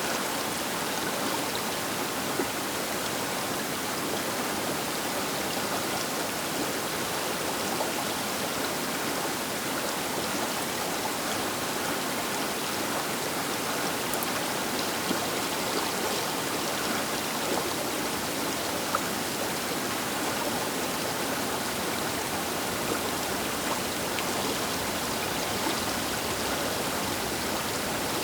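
River water rushing steadily over its bed, an even hiss with a few small splashes.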